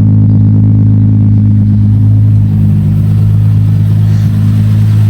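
Infiniti G35's V6 engine running at a steady idle, a constant low hum with no revving.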